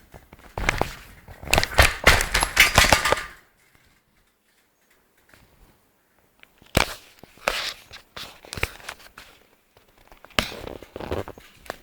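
Irregular clattering and rattling for about three seconds, then a silent pause of about three seconds, then a few separate sharp knocks and short rattles.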